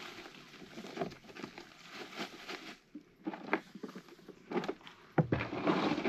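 Rustling and scattered light knocks of gear being handled, with a louder knock about five seconds in.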